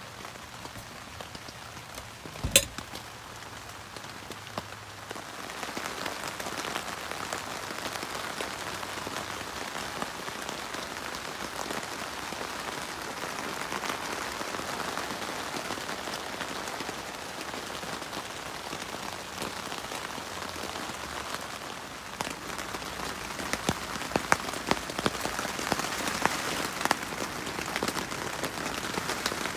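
Steady rain on the Luxe Twinpeak tent's fabric, heard from inside the tent, getting heavier about five seconds in, with louder single drops pattering near the end. One sharp knock about two and a half seconds in is the loudest sound.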